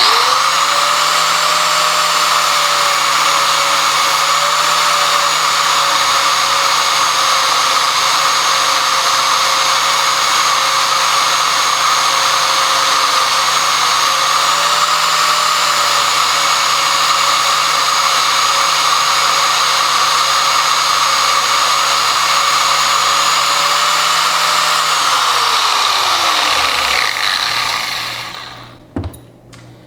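4-inch angle grinder with an 80-grit flap disc running at full speed with a steady high whine, grinding down a plastic GoPro mount. About 25 seconds in it is switched off and winds down, the whine falling in pitch until it stops.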